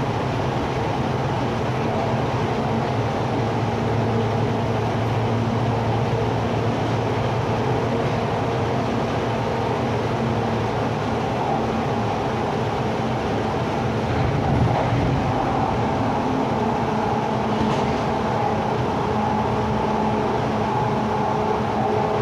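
MTR East Rail Line R-Train electric multiple unit running on the line, heard from inside the car: a steady rumble of wheels on rail with a faint hum of motor tones, and a single short knock about fifteen seconds in.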